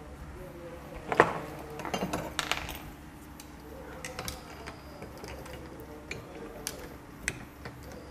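Metal engine parts and tools clinking and knocking during motorcycle engine reassembly. There is a sharp clink about a second in, a quick cluster of clinks a second later, then a few scattered single clicks, over a faint steady hum.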